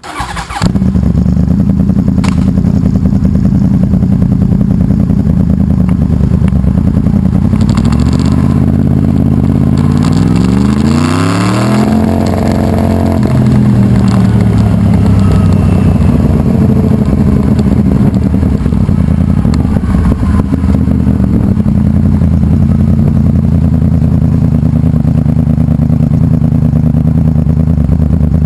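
Loud 2011 Yamaha R1 crossplane inline-four with a fully built engine, running hard. It comes on suddenly about half a second in, runs steadily, then climbs in pitch for a few seconds around the middle before dropping back.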